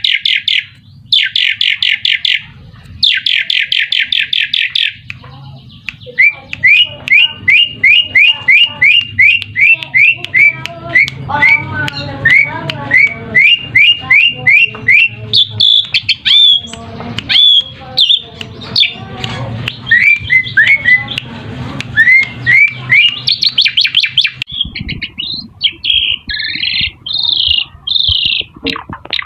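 Asian pied starling (jalak suren) singing. It opens with fast rattling trills, then gives a long run of quick down-slurred whistles over lower chattering notes, and harsher squawking notes near the end.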